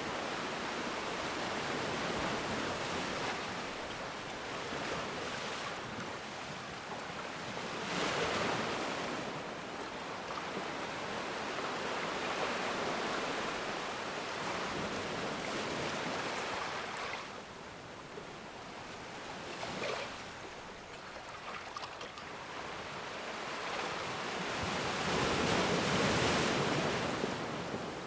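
Ocean waves breaking and washing on a shore: a steady rush of surf that swells and fades in slow surges, with the largest waves breaking about eight seconds in and again near the end.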